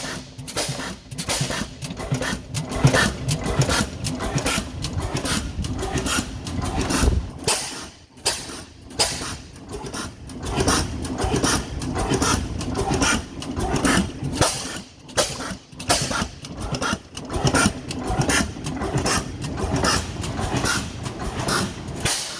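25 hp Foos Type S hit-and-miss engine running on propane: a quick, uneven train of knocks and clicks over a low rumble, with a short lull about eight seconds in.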